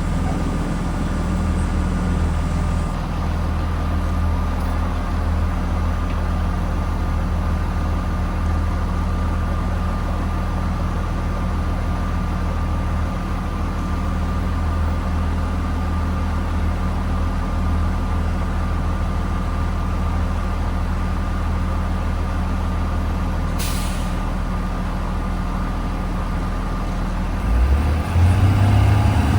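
School bus engine idling steadily, heard from inside the bus, with a thin constant whine above the engine hum. A short hiss comes about 24 seconds in, and near the end the engine speeds up and gets louder as the bus pulls away.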